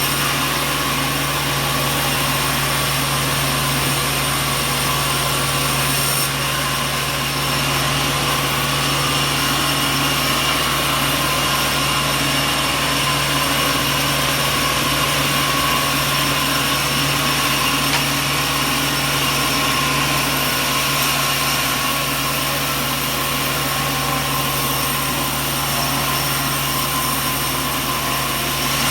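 Sawmill machinery running steadily: a constant mechanical drone with a strong steady hum and several fixed tones, with no sign of a cut starting or stopping.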